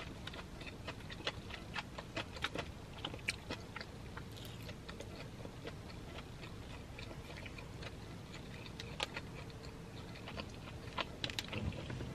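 Close-miked chewing with many small wet mouth clicks, and now and then a plastic fork clicking against a foam takeout box. The clicks come thickest about a second in and again near the end.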